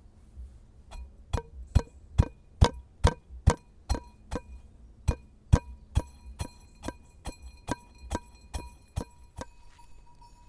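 A steady run of sharp strikes, a little over two a second with one short break, each leaving a brief ringing tone.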